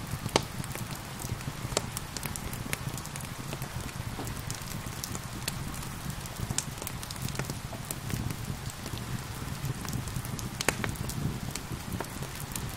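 Wood fire crackling with sharp, irregular pops over a steady patter of rain. A louder pop comes about half a second in and another near the end.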